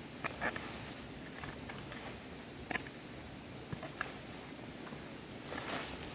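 A steady high-pitched insect trill runs under scattered light clicks and knocks at irregular intervals, with a brief rustle near the end.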